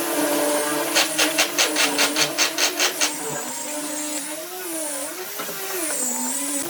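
A power tool running, its pitch wavering up and down as the load changes, with a quick run of about ten sharp knocks, roughly five a second, in the first half.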